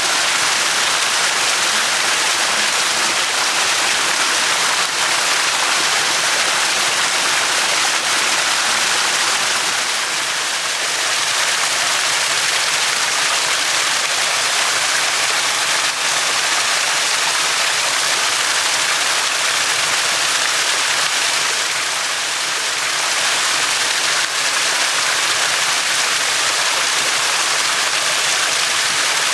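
Small stream running over stones: a loud, steady rush of water.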